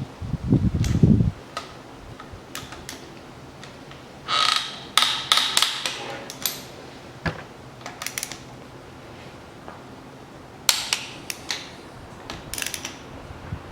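Ratcheting torque wrench clicking in short spells as cylinder head bolts are tightened to torque. A dull low thump comes in the first second.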